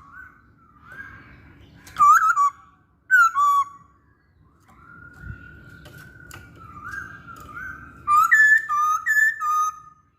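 A laughingthrush (poksay hongkong) singing loud, clear whistled phrases of gliding notes. Short bursts come about two and three seconds in, softer drawn-out whistles follow, and a longer run of repeated rising notes comes near the end.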